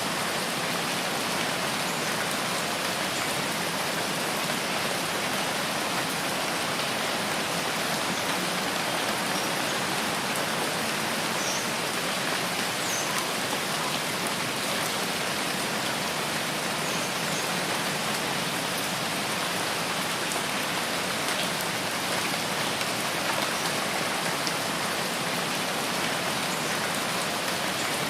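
Steady rain falling, an even, unbroken hiss of many drops that neither builds nor eases.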